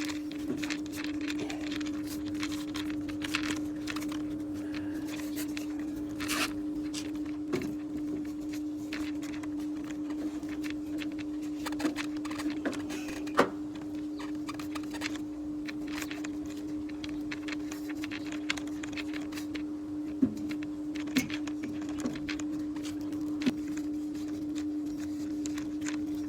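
A steady, even motor hum at a single pitch, with scattered clicks and knocks from handling tools or parts.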